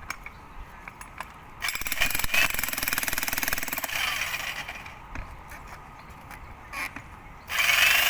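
Jackhammer breaking into a tree root in two runs of rapid hammering: a longer run of about three seconds starting under two seconds in, then a second run near the end.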